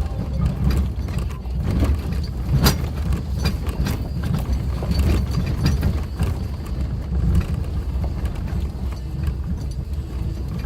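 Suzuki Jimny driving along a rough forest road: a steady low rumble of engine and tyres, with scattered knocks and clicks throughout, the sharpest about two and a half seconds in.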